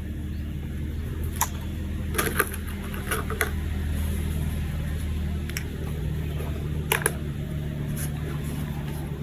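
A small motor running with a steady low hum, with a scattering of sharp clicks from plastic toy parts being handled.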